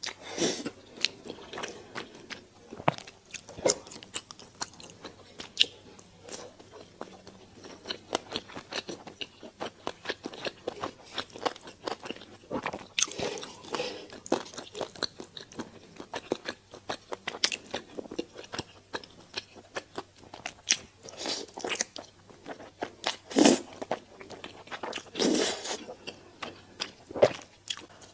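Close-miked eating sounds: a person chewing and biting, with many small wet clicks and crunchy bites, and a few louder crunches or slurps around the middle and near the end.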